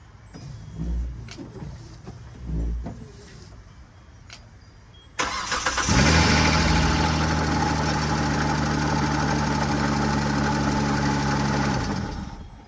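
Car engine being jump-started from a dead battery with a lithium jump starter pack: after two low thumps, the starter cranks about five seconds in, the engine catches within a second and idles steadily for about six seconds, then is shut off.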